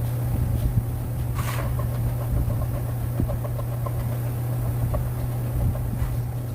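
Steady low mechanical hum, with one brief swish about a second and a half in.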